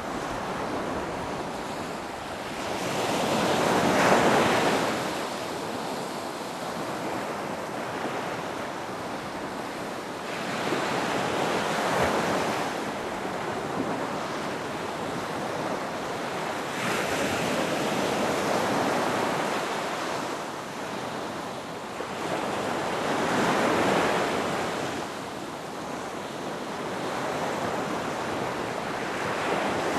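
Ocean waves breaking and washing onto a beach, the surf swelling and fading about every six to eight seconds, with some wind.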